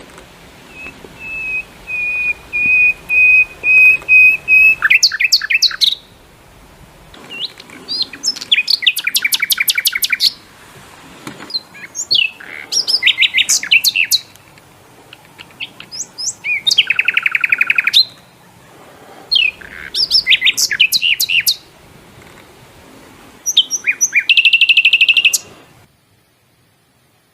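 A songbird singing: a long steady whistled note, then a series of loud, rapid trilled and chirping phrases separated by short pauses, ending shortly before the close.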